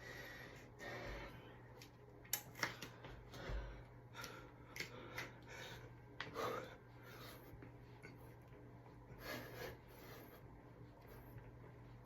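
Wrestler-style push-ups: faint breathing with scattered soft rustles and light knocks of the body and hands against the floor, over a low steady hum.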